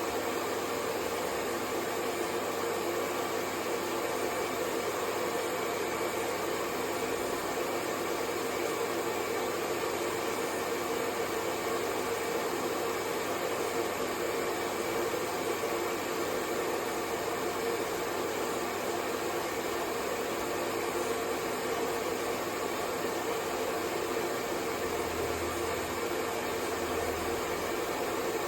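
Hair dryer blowing steadily, a constant whooshing noise with a low hum and no change in speed.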